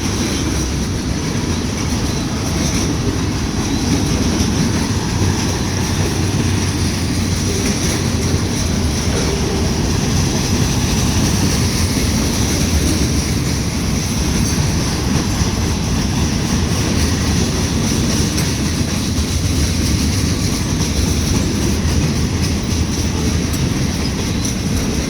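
Union Pacific manifest freight train rolling past at close range: a steady, loud rumble of freight cars' wheels on the rails.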